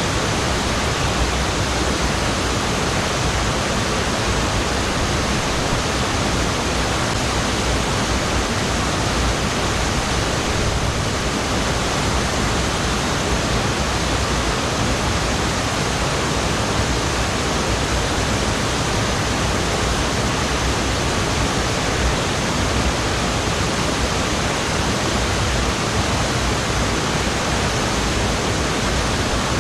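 Waterfall: water pouring steadily, an even unbroken rush.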